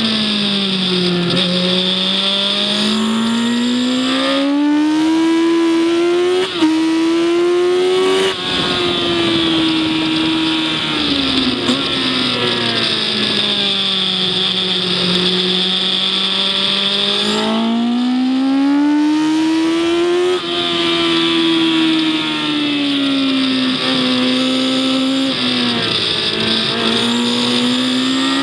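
Engine of a vehicle on track heard onboard, its revs climbing and falling in long sweeps as it accelerates and slows, with two quick pitch drops like gear changes about six and eight seconds in.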